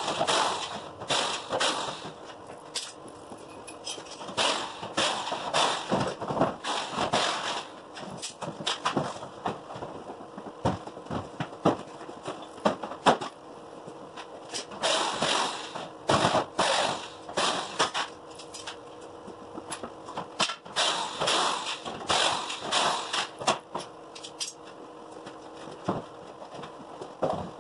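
Garage door hardware being worked: irregular sharp knocks and clanks, coming in clusters with short gaps between.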